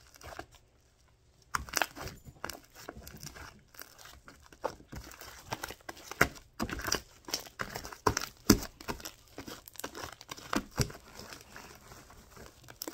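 Hands squeezing and stretching sticky, fluffy shaving-cream slime, giving irregular sticky clicks and pops. It starts about a second and a half in, after a brief quiet.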